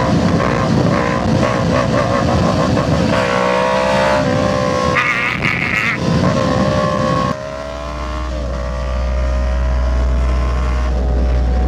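Kawasaki Ninja 500 SE's parallel-twin engine running under way, its pitch rising and falling through gear changes and then climbing slowly as the bike accelerates. From about seven seconds in, a deep wind rumble sits under the engine, with a brief higher-pitched sound about five seconds in.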